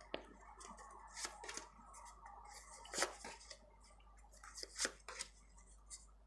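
Tarot cards being drawn from the deck and laid out: faint soft slides and taps, the sharpest about three seconds in and again near five seconds.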